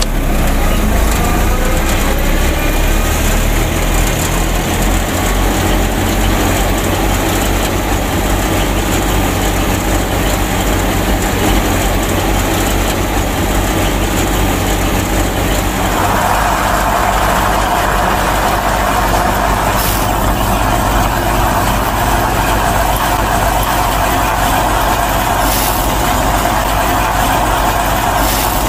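Steady engine-like running of a miniature DIY tractor driving a model wheat thresher through its drive shaft, with a whine that rises over the first few seconds as the machine spins up. A louder, higher whir joins about sixteen seconds in.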